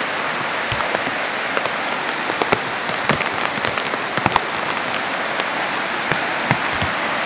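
Heavy rain, with drops tapping sharply and irregularly on the plastic waterproof cover wrapped around the camera, over a steady rush of water.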